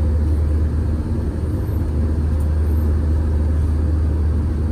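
Airliner cabin noise in flight: a steady low rumble of engines and airflow.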